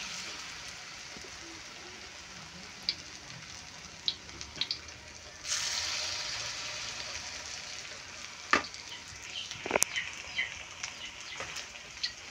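Vegetable fritters (bakwan) frying in hot oil in a wok: a steady sizzle that swells about five and a half seconds in, with a few sharp knocks along the way.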